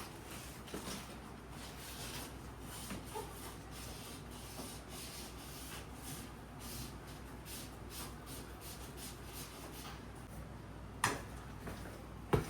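Tape being wound around the air conditioner's pipe and cable bundle, a run of short scratchy rubbing and rustling sounds, with two sharper knocks near the end.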